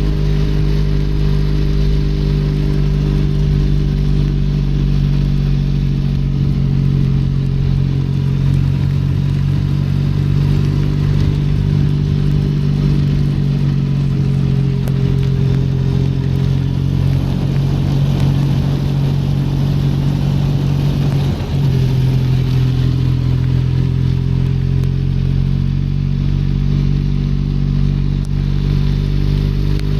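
Benelli Leoncino 500 Trail's parallel-twin engine running at a steady pace under way, with a brief dip in the engine note about two-thirds of the way in. A steady hiss of rain runs underneath.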